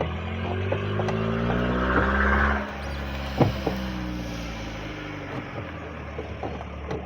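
A motor vehicle engine running, its pitch drifting slightly, louder for the first two and a half seconds, with a few sharp knocks; the loudest knock comes about three and a half seconds in.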